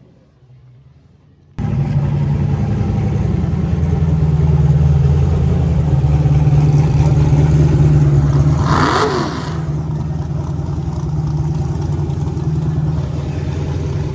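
Car engine running steadily. It starts abruptly about a second and a half in, and there is a brief louder rise-and-fall sweep about nine seconds in.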